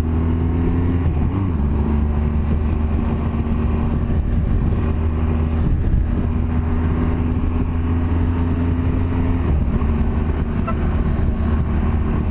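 BMW R1200GS Adventure boxer-twin engine running at a steady cruise, heard through a helmet-mounted mic with wind noise. The engine note dips briefly about a second in and steps down near the end.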